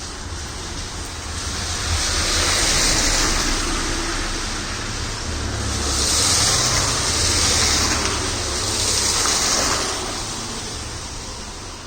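Vehicles passing on a rain-wet road: tyres hissing through the water, swelling and fading several times over a low rumble.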